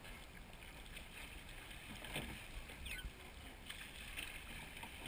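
Faint sounds of a seine boat being rowed through choppy water: water washing against the hull and oars, over a low steady rumble.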